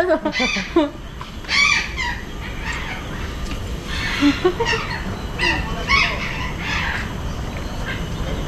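Parrots squawking: a series of short, harsh calls, roughly one every second, over a steady low background hum.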